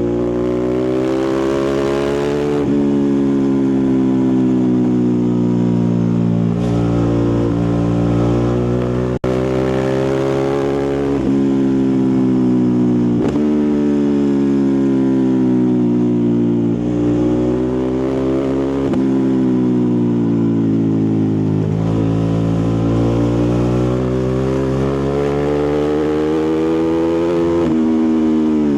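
Ducati Multistrada 1260 Pikes Peak's V-twin engine and exhaust under way, pulling up through the revs and dropping sharply at each gear change, again and again, with stretches of falling revs as it slows. The sound cuts out for an instant about nine seconds in.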